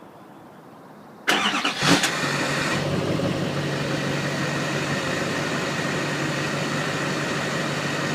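2013 LML Duramax 6.6-litre V8 turbodiesel cranking and firing up about a second in, with a brief flare of revs as it catches, then settling into a steady idle through an aftermarket exhaust.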